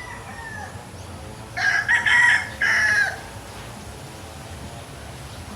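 A rooster crowing once, about a second and a half in, the crow lasting about a second and a half.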